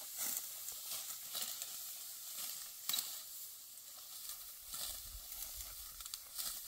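Dry wheat stalks rustling and crackling as they are harvested, with a few sharper crackles standing out.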